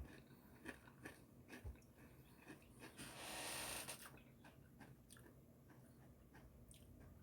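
Faint chewing and crunching of Flamin' Hot Cheetos in the mouth, a scatter of small crisp crunches, with a brief soft hiss about three seconds in.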